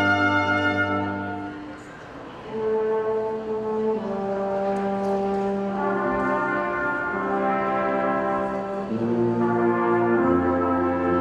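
Brass ensemble playing slow, held chords. The music fades about two seconds in, then a new chord enters, and the harmony moves every two or three seconds after that.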